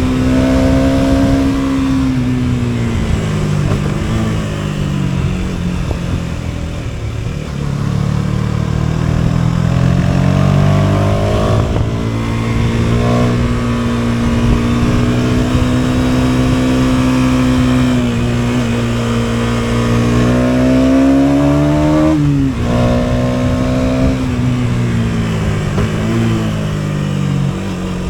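KTM 250 Duke's single-cylinder engine running under way, its note falling and rising with the throttle. It holds steady for a stretch, then climbs and drops sharply at a gear change about two thirds of the way through.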